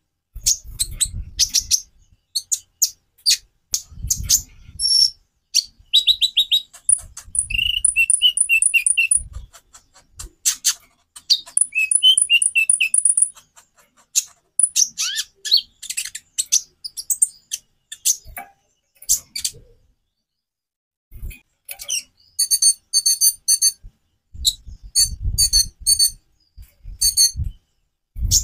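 Kolibri ninja (konin) sunbird singing a varied song of quick high chirps, slurred notes and fast rattling trills, with a short break about two-thirds of the way through. Low thuds sound now and then alongside the song.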